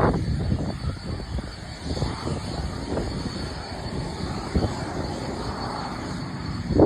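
BAE Hawk T2 jet trainers taxiing, their Rolls-Royce Adour turbofans at low power with a thin steady whine. Gusty wind buffeting on the microphone rumbles underneath and surges near the start and end.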